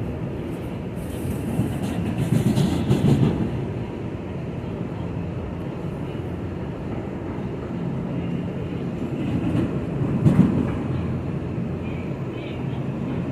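New York City Subway A train running along the tracks, heard from on board: a steady low rumble with louder surges of rail noise about two to three seconds in and again about ten seconds in.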